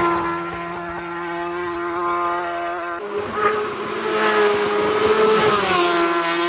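Racing superbikes at full throttle on a road course. One engine runs on after passing, then a second comes in louder and flashes past about six seconds in, its pitch dropping as it goes by.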